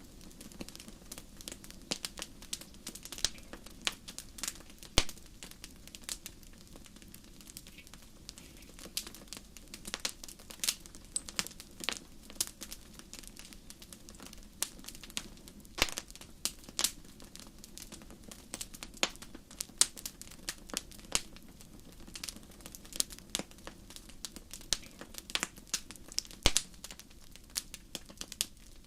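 Wood campfire crackling: frequent, irregular sharp pops and snaps over a steady low rush of burning.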